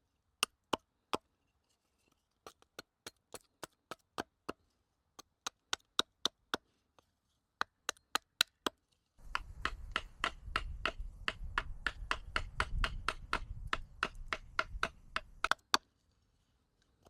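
Carving axe chopping a wooden spoon blank: sharp, short strikes, two or three a second, in runs with short pauses. A low background rumble sits under the strikes through the second half.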